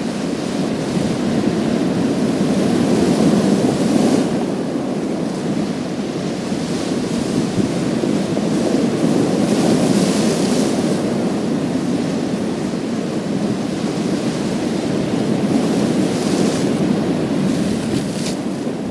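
Sea waves breaking and washing over a pebble beach, a continuous surf that swells into louder surges about every six seconds, each with a brief bright hiss as the water runs through the stones.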